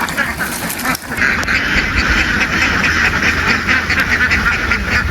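A large flock of ducks quacking continuously in a dense, overlapping chatter, which becomes louder and fuller about a second in.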